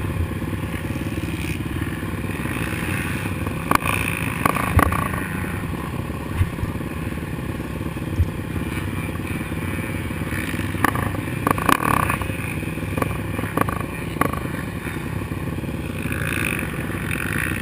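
Suzuki LT-R450 quad's single-cylinder four-stroke engine running hard on a motocross track, with several sharp knocks and clatters from the machine over the course.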